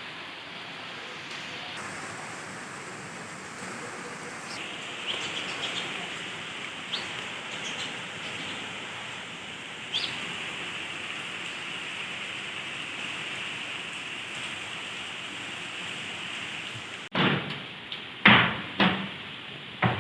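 Outdoor ambience: a steady hiss with a few short bird chirps. Near the end it changes abruptly to a few loud knocks.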